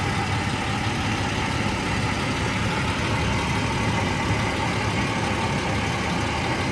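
1996 Jaguar XJS's engine idling steadily.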